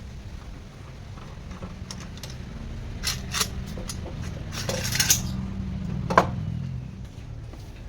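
Metal pieces clinking and knocking against each other a few times over a steady low hum, with a small cluster of knocks about five seconds in.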